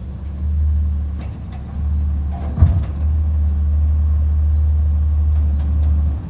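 Garbage truck engine running with a steady low rumble, and one sharp metallic clunk about two and a half seconds in.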